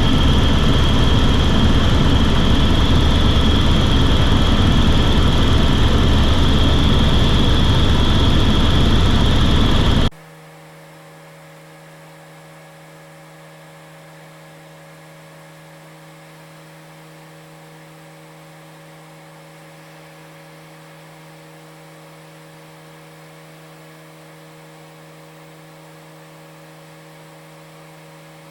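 Helicopter cabin noise: a loud steady engine and rotor rumble with a high turbine whine, which cuts off suddenly about ten seconds in. After that only a faint steady hum remains.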